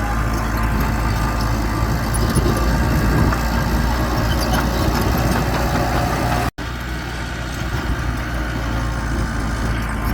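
Mitsubishi bulldozer's diesel engine running steadily, the low engine sound strongest. About six and a half seconds in, the sound cuts out for a split second, then resumes.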